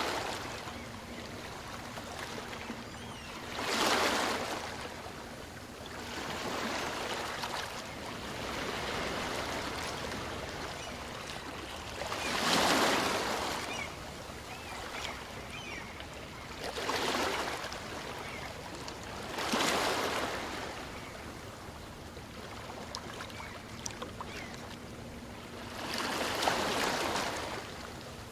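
Small waves of a calm sea breaking and washing up a beach, the surf swelling and fading every few seconds, with five stronger surges.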